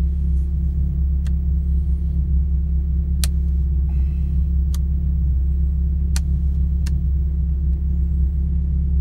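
Mazda MX-5 NC's four-cylinder engine idling steadily, heard from the car. Several sharp clicks sound over it, spaced a second or two apart.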